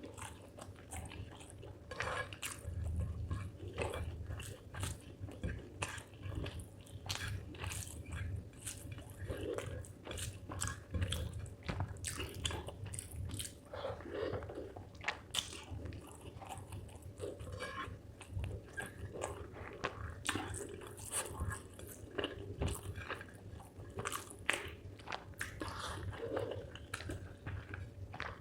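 A person chewing mouthfuls of rice and spicy chicken liver close to the microphone: a dense, irregular run of small wet mouth clicks and smacks over a low rumble.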